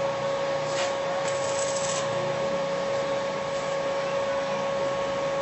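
A machine running steadily: a constant hum with a higher whine over an even hiss, holding the same pitch and level throughout.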